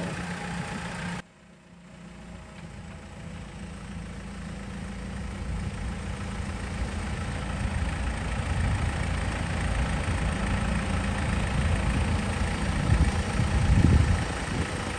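Rock crawler's engine running at low, steady revs. It cuts out abruptly about a second in, then returns and grows gradually louder, peaking near the end.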